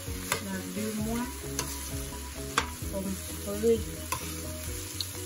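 A metal spoon stirs and scrapes shrimp fried rice around a frying pan over the heat, with the food sizzling. A few sharp clinks come where the spoon knocks the pan.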